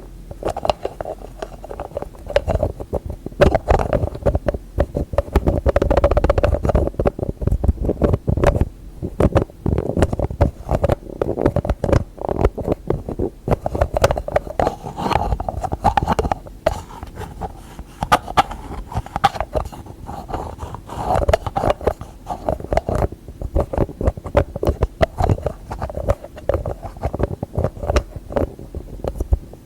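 Fingertips tapping rapidly and irregularly on container lids and other objects, with some light scratching.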